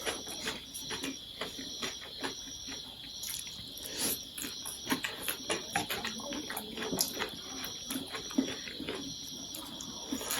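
A person eating chow mein noodles close to the microphone: chewing and slurping, a steady run of small wet mouth clicks.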